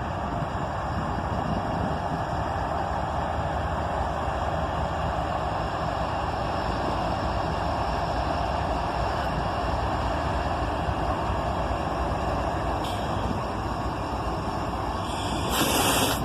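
Autorack freight train rolling slowly past, a steady rumble of wheels and cars, with a brief louder burst of noise near the end.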